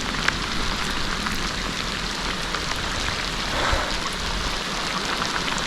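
Heavy rain pouring down steadily, with scattered drop ticks close to the microphone.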